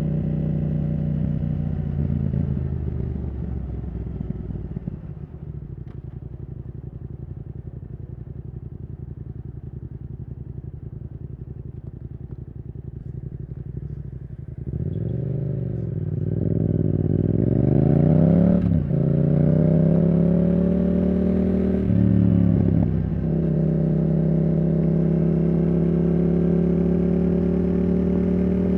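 Yamaha R7's parallel-twin engine through a Yoshimura R77 exhaust. It eases off and runs low and steady for about ten seconds. Halfway through it accelerates hard, rising in pitch with two quick upshifts, then holds a steady cruise.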